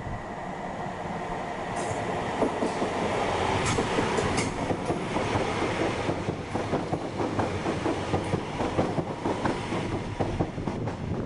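A passenger train running past on the rails, growing louder over the first few seconds, then a quick, uneven run of wheel clicks over the rail joints.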